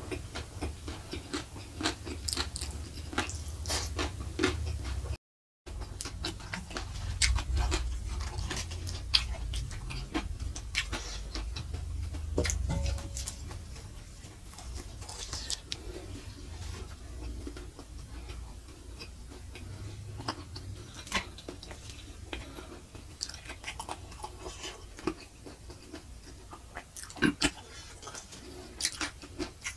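Close-miked chewing of fried spleen and rice: many small wet mouth clicks and smacks. The spleen is tough and chewy when fried. A brief dropout comes about five seconds in.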